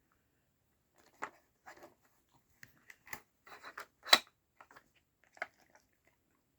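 Dog nosing and pushing the plastic parts of a Trixie Brain Mover treat puzzle: scattered small clicks and rattles, with one sharp knock about four seconds in.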